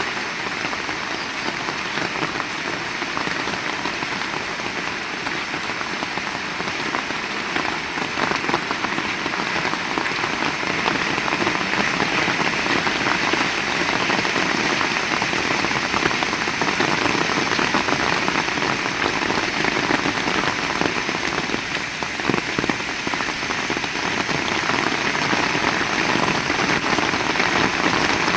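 Heavy rain falling steadily, a dense hiss of drops on surfaces, growing a little louder in the second half.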